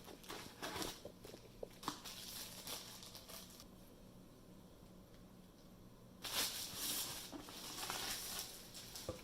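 Packaging being handled during unboxing: paper and plastic rustling and crinkling, with a few light knocks. A longer, louder stretch of rustling starts about six seconds in.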